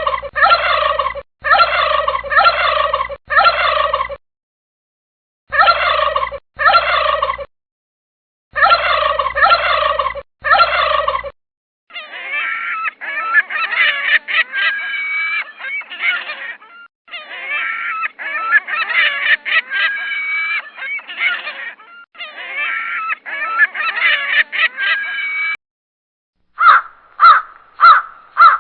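Wild turkey gobbling in repeated bursts with short pauses for the first eleven seconds, followed by a longer, denser stretch of bird calls. Near the end a series of short, harsh raven calls begins.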